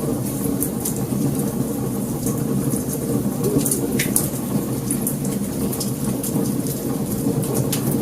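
Wood fire burning: a steady low rumble with frequent small, sharp crackles and pops, one louder pop about four seconds in.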